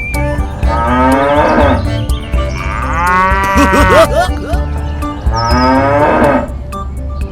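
Three long, drawn-out animal calls in a row, cow-like moos, over background music.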